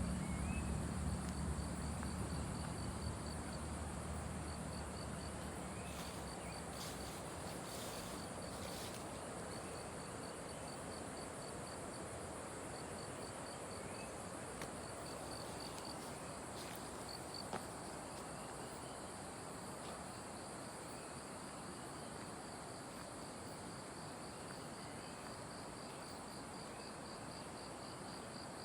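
Forest insects calling: a steady high shrill drone with a quick, regular pulsing chirp over it. A low rumble fades out over the first few seconds.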